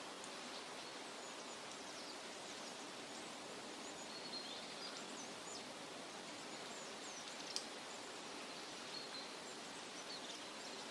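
Forest nature ambience: a steady, even rushing hiss of moving air or water through foliage, with faint high bird chirps scattered throughout and one sharp tick about seven and a half seconds in.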